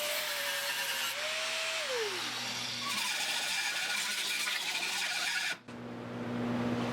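Power grinder working the welded sheet-metal repair on a car body, a gritty rasping grind whose motor pitch sags and drops about two seconds in. It cuts off suddenly near the end, leaving a low steady hum.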